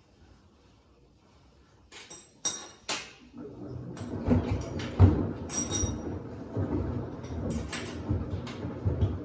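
Samsung front-loading washer-dryer with two pairs of sneakers inside: three sharp clicks about two to three seconds in, then a low rumble with irregular dull thuds as the drum turns and the shoes tumble.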